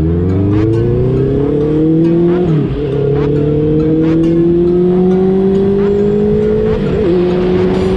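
Honda CB650R's inline-four engine, breathing through a Two Brothers full exhaust, accelerating with its pitch rising steadily, a brief dip at an upshift about two and a half seconds in and another near the end.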